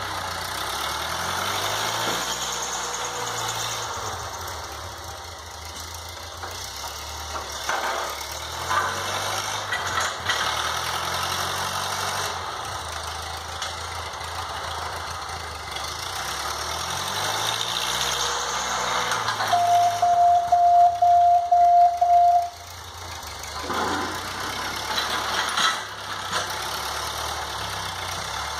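1952 Ford 8N tractor's four-cylinder gasoline engine running while plowing snow, its speed rising and falling several times. About two-thirds of the way through, a loud pulsing beep sounds for about three seconds.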